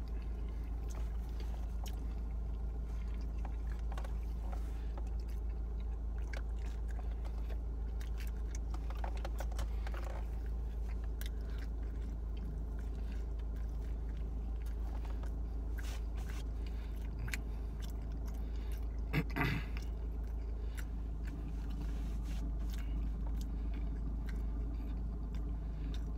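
Close-up chewing and biting of pizza: soft wet mouth sounds and scattered small clicks, with one louder bite or smack about nineteen seconds in, over a steady low hum.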